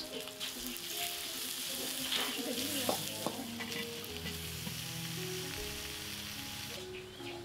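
Spice paste sizzling as it fries in an aluminium wok, stirred and scraped with a metal spatula, with a few clinks of the spatula against the pan. Pieces of goat meat are tipped in partway through. The sizzling stops shortly before the end.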